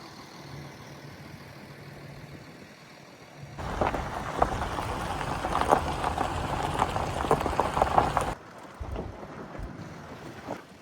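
Vehicle travelling over a rough gravel track: at first a low steady engine hum, then from about three and a half seconds a loud crackling crunch of stones under the tyres, which cuts off suddenly about eight seconds in.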